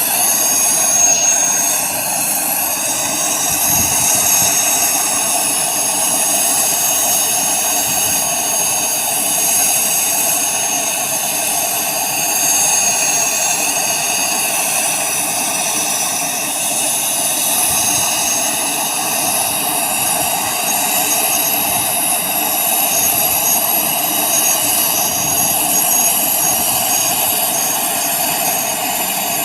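Mi-17 helicopter's twin turboshaft engines running steadily: a constant turbine whine with high whistling tones over an even rushing noise.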